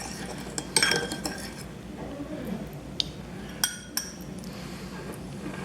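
A few light clinks of a spoon and dishes being handled and set down: one ringing clink about a second in, then three quicker ones around three to four seconds in.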